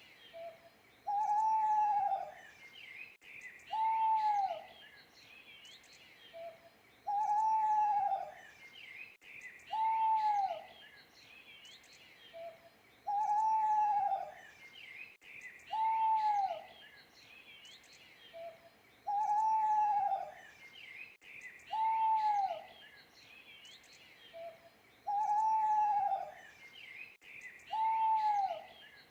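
Owl hooting in a repeated phrase: a short soft note, then two longer hoots that rise and fall in pitch, the phrase coming back about every six seconds. Faint high chirping of small birds runs underneath.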